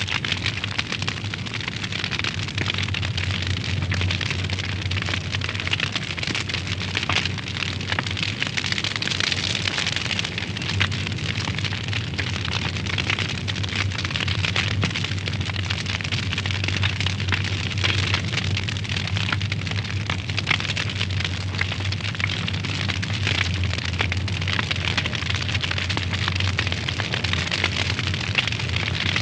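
Wood fire burning in a fireplace, crackling and popping with many small snaps over a steady hiss, along with a steady low hum.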